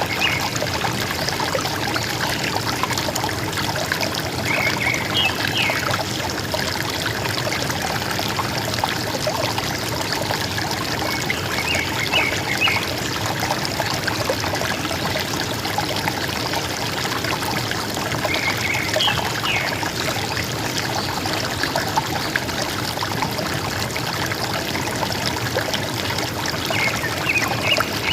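River water gurgling and rushing steadily, with a bird's short call of a few quick high notes repeating about every seven seconds, four times.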